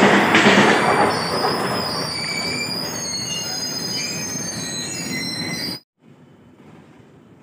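Trains passing close alongside: at first passenger coaches rumble past with a regular wheel clatter. From about a second in, freight wagons roll by with high-pitched wheel squeal. The sound cuts off suddenly near the end, leaving faint outdoor ambience.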